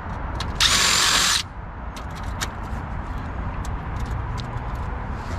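A power tool spinning briefly, a high-pitched whir of just under a second about half a second in, followed by scattered light clicks and taps of metal parts being handled.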